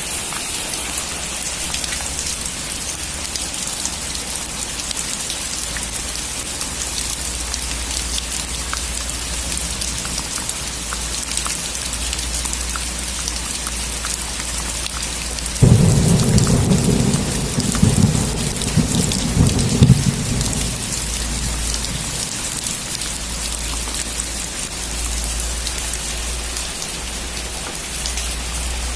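Steady rain falling, with a sudden clap of thunder about halfway through that rumbles low for about five seconds before fading back under the rain.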